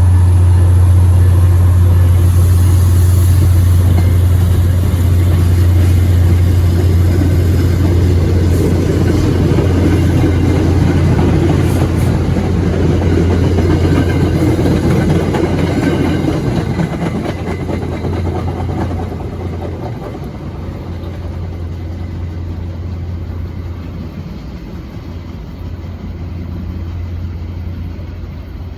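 Diesel locomotive running close by, with a steady deep engine drone and rumbling rail noise. The sound grows fainter over the second half.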